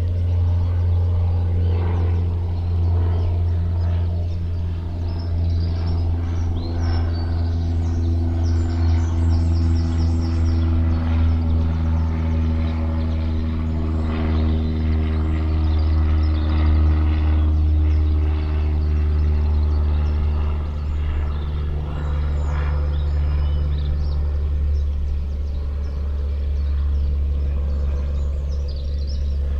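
A motor's steady low hum with several higher tones that drift slowly up and down in pitch. A bird chirps briefly about nine seconds in.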